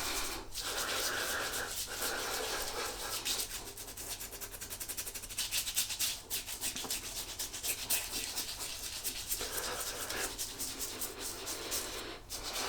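Hands rubbing pre-shave into a wet, stubbly face: a continuous wet rubbing in quick strokes.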